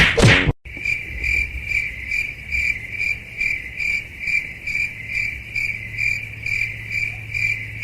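Insect chirping: a steady high tone pulsing about two and a half times a second, over a low steady hum.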